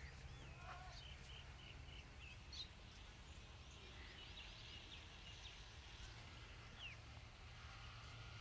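Faint outdoor ambience with scattered short bird chirps over a low steady hum.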